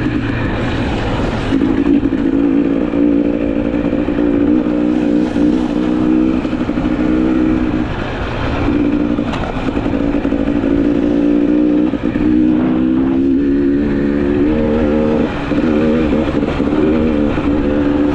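GasGas EC300 two-stroke enduro motorcycle being ridden, its engine note climbing and falling with throttle and gear changes, with brief lifts of the throttle about eight and fifteen seconds in.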